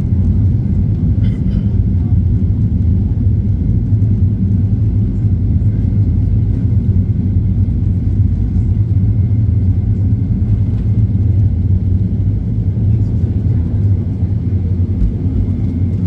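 Steady low rumble of a Boeing 737-800's CFM56-7B jet engines during takeoff.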